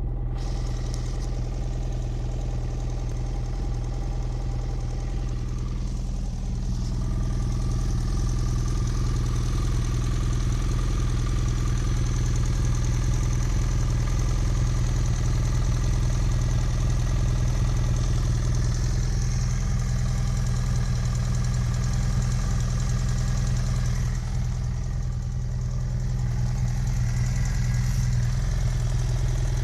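2010 BMW F800GS parallel-twin engine idling hot and steady, with a rattling noise in it that the owner suspects comes from the valves or a piston.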